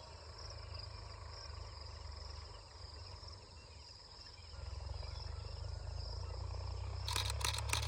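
Insects, crickets among them, chirring steadily at a high pitch over a low steady rumble. Near the end, a quick run of about six clicks: a camera shutter firing in burst mode.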